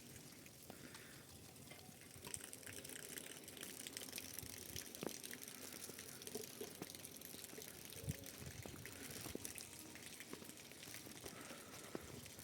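Faint trickling water, a steady light hiss with scattered small drips.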